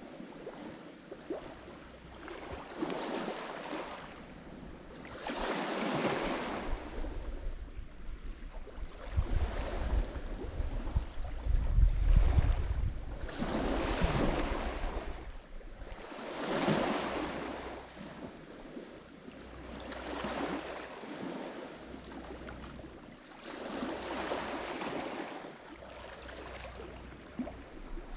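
Lake Michigan waves breaking on the shore, each wash swelling and fading about every three seconds. A low rumble builds under the waves near the middle and is loudest a little before halfway.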